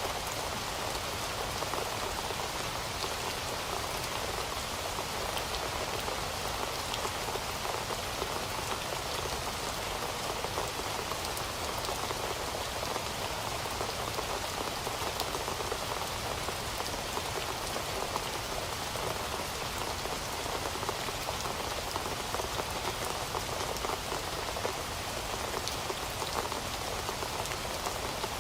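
Heavy rain falling steadily, a dense, even hiss of drops with fine patter on a hard surface.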